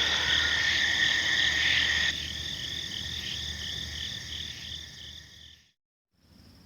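Night chorus of crickets and frogs: steady high insect trilling over a repeating pulsed call and a low pulsing croak. Part of the chorus drops out about two seconds in, and the rest fades out near the end, leaving a brief silence before faint insect trilling comes back.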